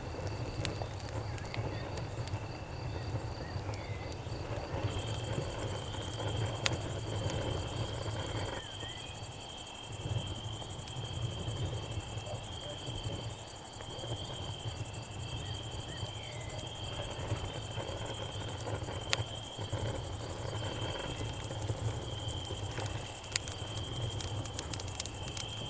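Night insect chorus with a campfire: a high, steady cicada drone comes in about five seconds in over a steady cricket trill, with scattered sharp crackles and pops from the burning wood. A low steady rumble runs underneath.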